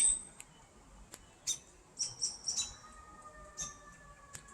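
Birds chirping in the trees: short, high calls coming irregularly, a couple each second. From a little past halfway, a faint, slowly falling tone also runs underneath.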